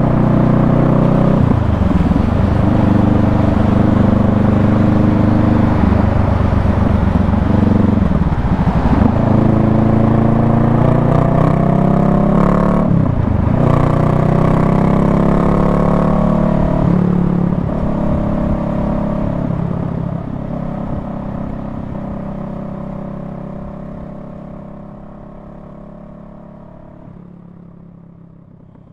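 Honda Rebel 500's parallel-twin engine running under way, heard from the rider's seat with wind and road noise. The revs drop sharply and climb again several times, then the whole sound fades away over the last ten seconds or so.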